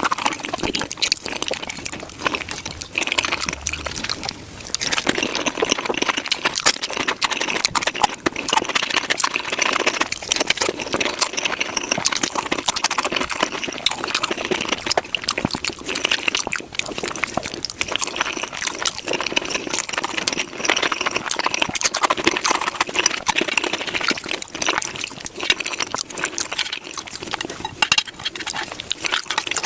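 Close-miked eating sounds sped up about five times: tacos being chewed and crunched, a dense, rapid run of wet clicks and crunches without a break.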